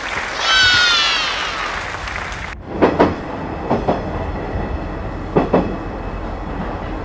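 Train wheels running over rail joints with a steady low rumble and a clickety-clack of three double knocks. Near the start a high squeal slides down in pitch for about a second.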